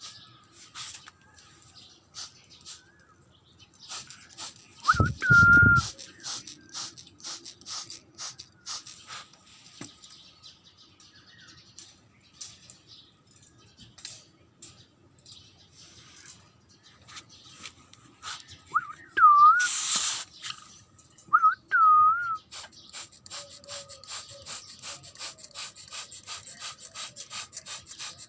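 A few short whistled notes, each bending up and then down, once about five seconds in and twice around 19 to 22 seconds. Under them runs faint rapid ticking, which grows busier near the end, and there is a brief hiss just after the middle whistle.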